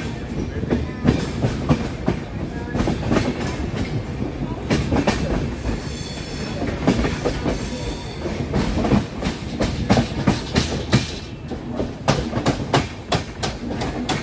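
Passenger coaches of an electric-hauled express train rolling past, wheels clicking steadily over rail joints. A brief high-pitched wheel squeal comes in about six seconds in.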